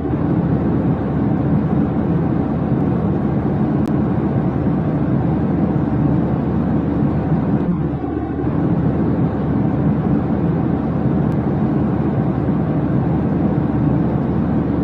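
Steady low rumble of a jet airliner in flight, an even noise with no change in pitch or level.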